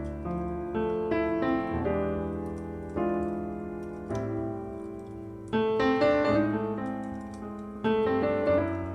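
Background piano music: slow chords and melody notes struck every second or so, each ringing and fading.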